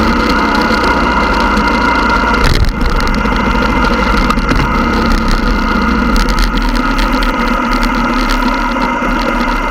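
Motorcycle engine running steadily, with a short jolt about two and a half seconds in.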